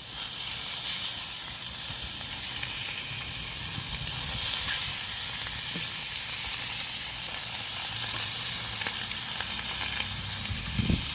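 Mojarra fish frying in butter in a pan, a steady sizzle.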